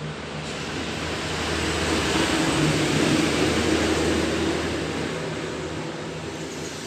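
A passing motor vehicle's engine, growing louder to its peak about three seconds in and then fading away.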